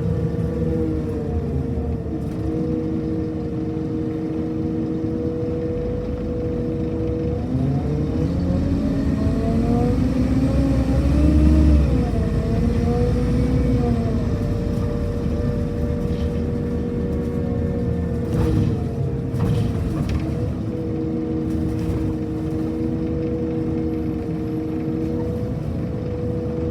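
Scania K230 UB city bus running with a steady high-pitched whine over its engine note. From about eight seconds in the whine rises in pitch as the bus accelerates, peaks near twelve seconds, then falls back and settles. A few short knocks come near the twenty-second mark.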